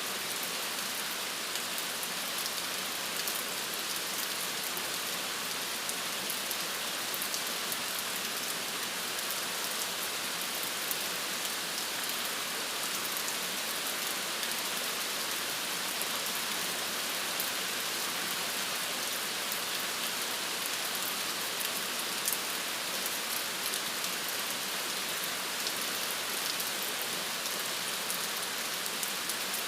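Steady rain falling, an even hiss with many small drop ticks against a surface, no thunder.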